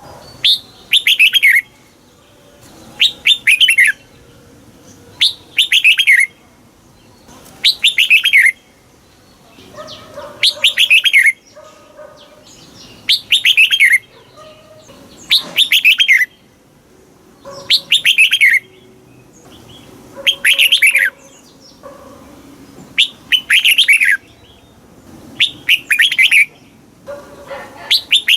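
Red-whiskered bulbul singing its short, loud phrase over and over, one phrase about every two and a half seconds. Each phrase is a quick run of notes falling in pitch.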